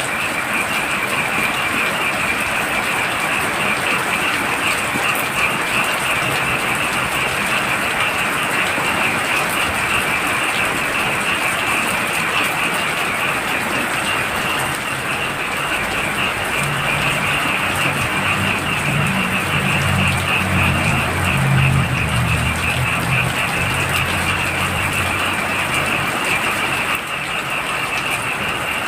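Heavy rain falling steadily with a chorus of frogs trilling over it. A low droning sound joins for several seconds past the middle.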